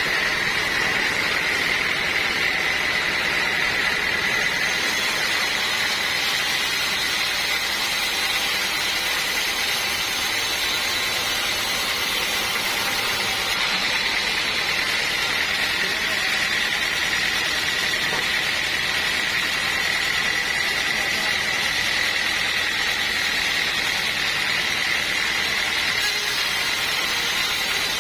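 Sawmill band saw running and cutting timber: a steady loud mechanical noise with a high whine held throughout.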